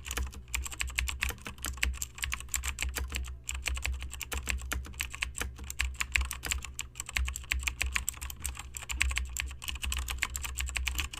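Rapid, irregular clicking, like keyboard typing, over a steady low hum.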